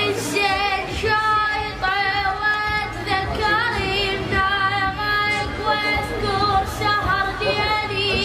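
A high, clear voice singing a solo Arabic chant with long, wavering ornamented notes and short breaks between phrases, imitating a devotional singer's style.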